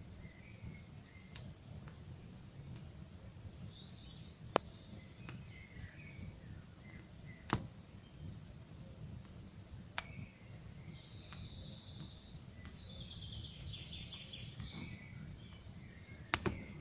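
Campfire burning, with a low steady rumble and a handful of sharp pops and cracks from the burning wood, the loudest a little after four seconds, about halfway through and near the end. Birds chirp in the background, with a fast trill in the second half.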